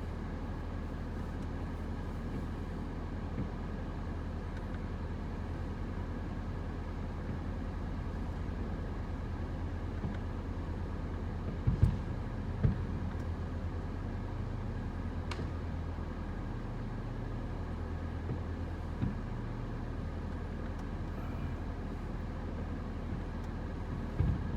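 Steady low hum, with sharp firework bangs: two close together about halfway through and more near the end.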